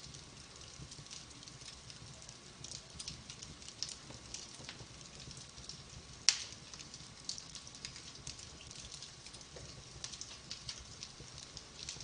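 Fireplace fire crackling, with irregular small snaps and pops and one sharp, louder pop about six seconds in.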